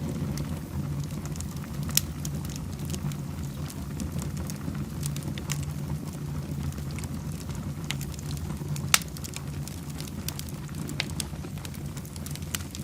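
Wood fire burning in a fireplace, crackling steadily with scattered sharp pops over a continuous low rumble. The two loudest pops come about two seconds in and about nine seconds in.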